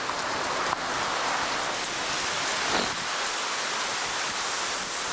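Heavy thunderstorm rain pouring down in strong wind, a steady rushing hiss.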